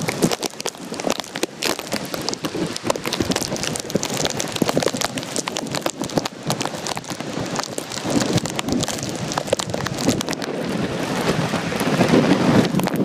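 Storm rain pattering hard on a nearby surface close to the microphone, a dense crackle of drops, with gusting wind that builds toward the end.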